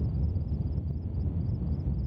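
Steady low outdoor rumble with faint high chirping that repeats about four times a second.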